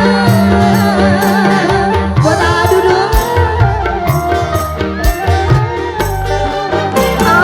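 Live dangdut band music with a steady hand-drum and bass rhythm under a wavering, ornamented melody line.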